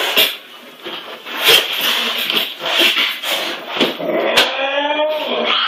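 A pet animal's drawn-out, wavering cry that starts about four seconds in, after a stretch of irregular knocking and scuffling noises.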